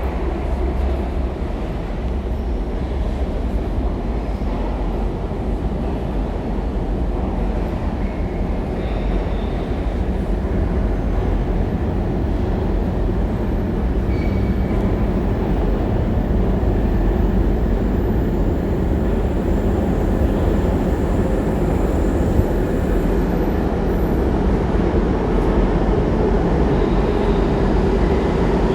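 Train running: a steady low rumble of wheels and motors that grows gradually louder, with a faint rising whine near the end.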